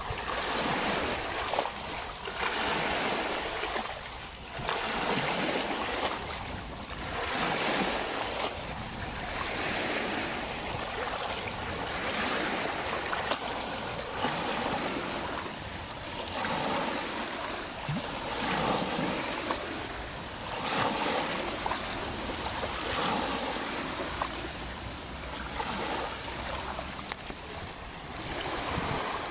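Small lake waves lapping and washing in, swelling and falling back every second or two.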